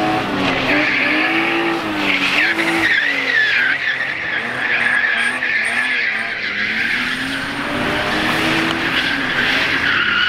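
A drift car sliding with its tyres squealing, the engine revving up and down as the driver works the throttle. The squeal is loudest about two seconds in and again near the end.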